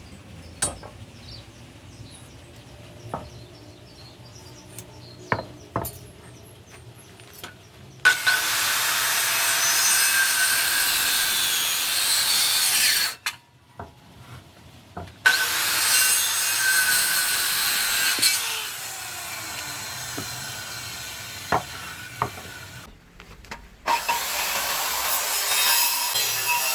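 A power tool cutting wood in three long passes of about five to seven seconds each, with short pauses between them. A few light knocks come first, before the cutting starts.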